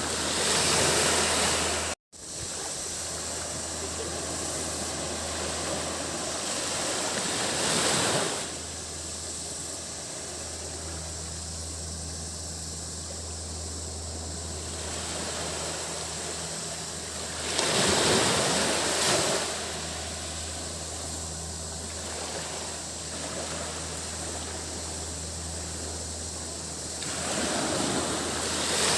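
Small waves breaking on a sandy beach, the wash swelling louder about every ten seconds, over a steady high-pitched drone of cicadas. The sound cuts out for a split second about two seconds in.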